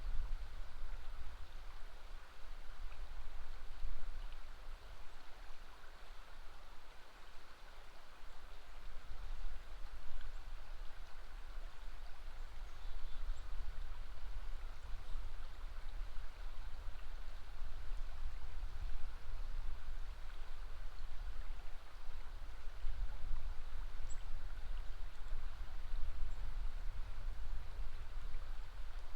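River water flowing steadily, an even rushing noise with a low rumble underneath.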